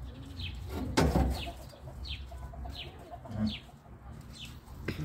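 A bird calling with a steady run of short, falling chirps, about two a second, with a single sharp knock about a second in.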